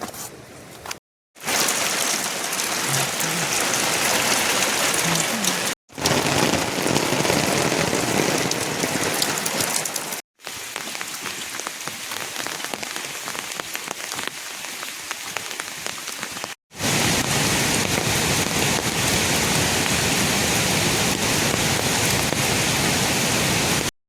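Steady rain falling, as a run of separate clips: the sound cuts out abruptly four times, and the stretch in the middle is somewhat quieter.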